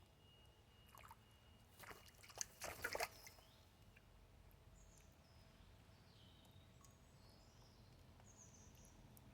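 Wood pigeon splashing in shallow water as it bathes: a quick cluster of splashes about two to three seconds in, then a quiet stretch.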